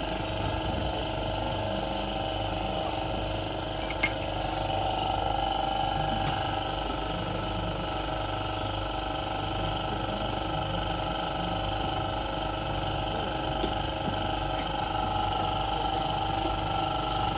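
Steady mechanical hum with a constant whine, and one sharp metallic click about four seconds in.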